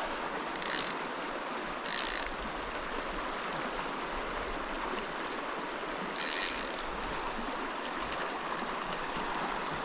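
Small mountain stream running steadily, with three short ratchet buzzes from a fly reel's click-pawl drag as line is pulled off, about a second in, at two seconds and past six seconds.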